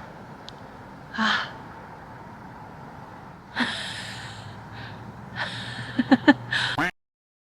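A woman's breathy gasps and sighs of effort over a steady outdoor background hiss, with a quick run of short sharp sounds near the end; the sound cuts off abruptly near the end.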